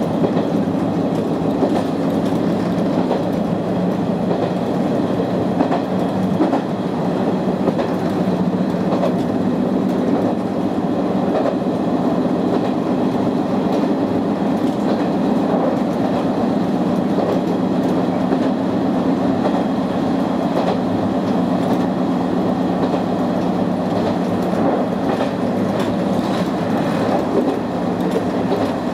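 Izu-Hakone Railway 3000-series electric train running at steady speed, heard from inside the car: a constant rumble of wheels on rail with a steady hum and occasional clicks of rail joints.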